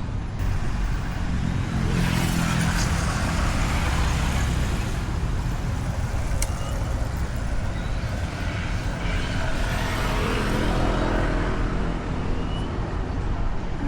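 Road traffic: vehicle engines and tyres passing close by, swelling for most of the stretch with a steady low rumble.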